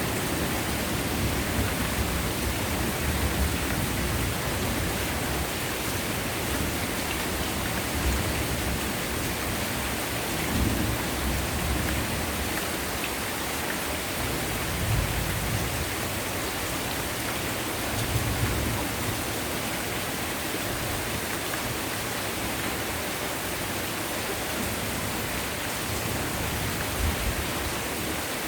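Heavy rain falling steadily, a dense even hiss, with low rumbles of thunder swelling and fading several times.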